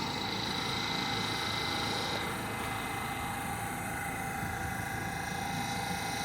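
Subway station ambience: a steady low hum and hiss with a few constant high whining tones, with no train passing.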